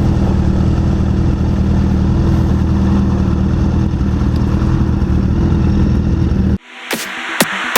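Motorcycle engine running steadily at an even pitch. It cuts off suddenly about six and a half seconds in, and electronic dance music with a sharp beat takes over.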